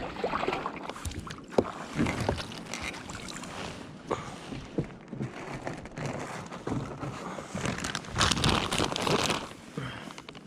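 Water splashing and lapping against a fishing kayak, with irregular small knocks and splashes and wind on the microphone; a louder splashing stretch comes near the end.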